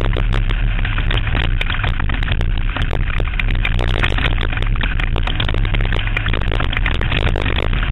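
Banger race car running flat out, its engine noise loud and distorted, with constant clattering and knocks from the car.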